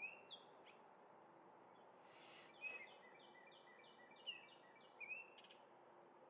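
Orioles calling: short slurred whistled notes a few times, and in the middle a run of about eight evenly spaced notes lasting roughly two seconds. A brief hiss comes just before the run, over faint steady background noise.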